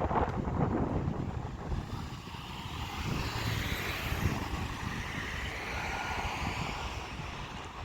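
A vehicle passing by, its noise swelling and fading over a few seconds, over a low rumble of wind on the microphone.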